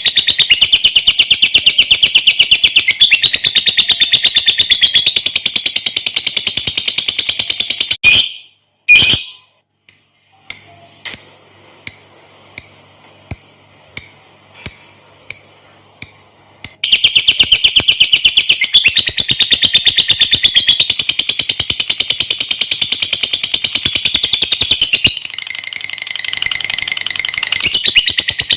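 Lovebird singing its long 'ngekek' chatter: a fast, high-pitched, rattling trill. About eight seconds in it breaks off for two loud calls and a string of about ten single sharp chirps, then the long rapid chatter resumes.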